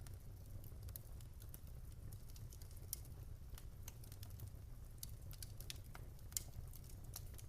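Wood fire crackling in a fireplace: irregular small snaps and pops over a low steady rumble of the flames, with a sharper pop about three seconds in and another near the end.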